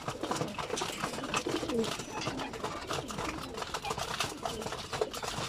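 Racing pigeons cooing in a loft over a steady scatter of short clicks, typical of birds pecking at grain while they feed.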